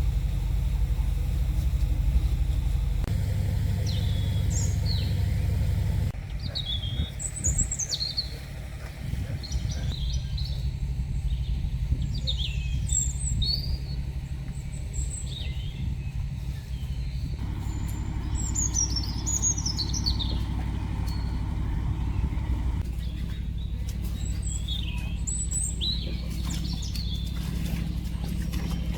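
Small birds chirping and calling repeatedly in short, quick notes, some sliding down in pitch, over a steady low rumble.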